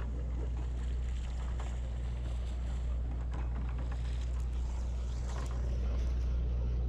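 Sportfishing boat's engine running with a steady low drone, over a haze of wind and water noise and a few faint ticks.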